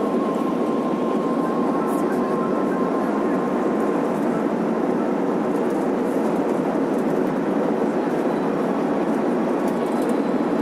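Steady cabin noise inside an Airbus A380 on the ground after landing, the sound of engines and air systems heard from a passenger seat. A faint steady whine runs under it and fades out a few seconds in.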